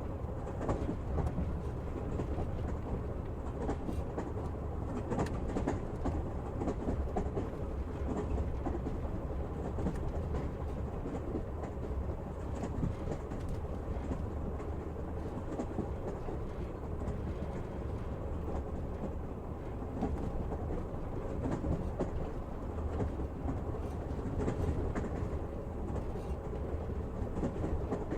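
Passenger train running steadily: a constant low rumble of the wheels on the rails, with scattered clicks and clatter from the wheels.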